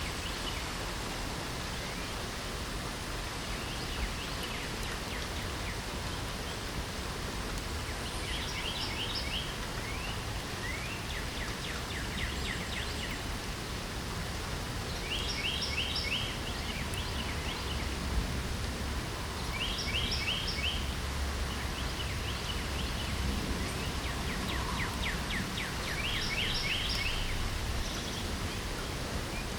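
Steady rain hiss with a songbird singing short, rapid trilled phrases over it, about five times, a few seconds apart.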